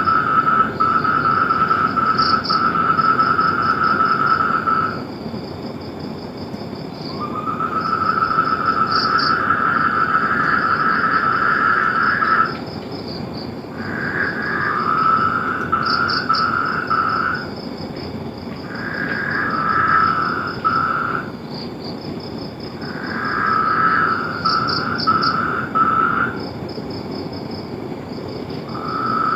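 Chorus of calling animals: long pulsed trills come in bouts of a few seconds with short pauses between them, over a steady, higher, pulsing chirr.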